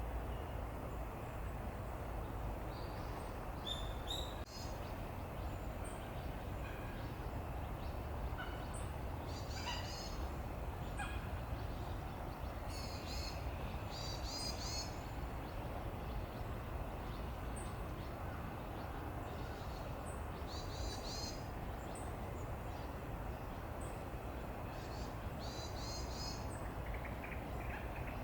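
Short high bird calls come in several brief clusters of quick repeated notes over a steady low background rumble.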